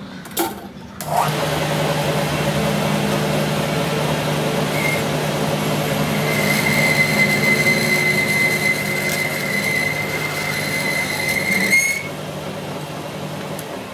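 A metalworking machine tool running under load, cutting steel: a steady mechanical noise with a low hum that starts about a second in. From about halfway a high steady squeal of the cut joins it, and both stop abruptly near the end.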